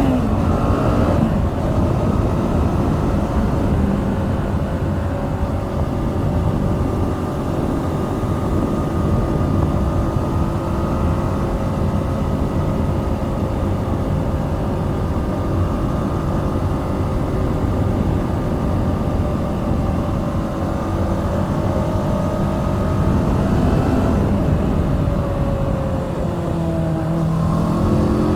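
Kawasaki Z650's 649 cc liquid-cooled parallel-twin engine riding along. It rises in revs at the start, holds a steady cruising note for most of the stretch, then climbs in revs again near the end, over a steady rush of wind.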